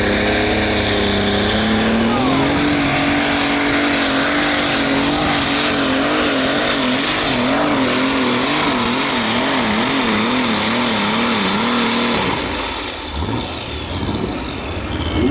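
Light modified pulling tractor's engine running flat out under load down the track, its pitch wavering rapidly up and down as the tractor bounces. About twelve seconds in, the engine note cuts off at the end of the pull and a high whine winds down.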